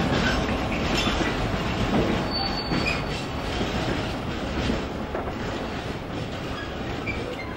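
Sliding-tarpaulin freight wagons rolling past on the track, the wheels knocking over the rail joints, with a brief high wheel squeal about two and a half seconds in. The rumble slowly fades.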